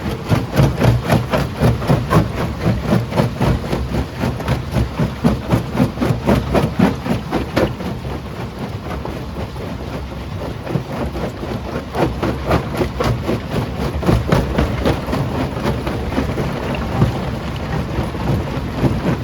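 Primary jaw crusher breaking quarry rock: a rapid, continuous clatter of knocks and cracks over a low rumble. It is heaviest in the first few seconds and again past the middle.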